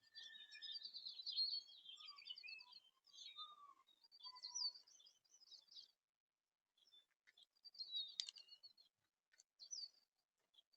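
Small backyard songbirds chirping and calling, faintly: many overlapping chirps and short trills for the first six seconds, then a pause and scattered chirps, with a single sharp click about eight seconds in.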